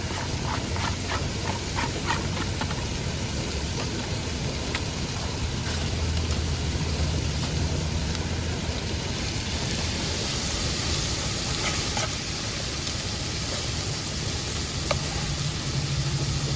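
Chopped steak with bell peppers and onions sizzling in a frying pan, stirred with a utensil, with a few light clicks in the first couple of seconds.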